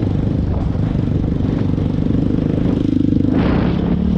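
1998 Dodge Ram 2500 pickup's engine running steadily while the truck drives a dirt trail, with a short rush of noise about three and a half seconds in.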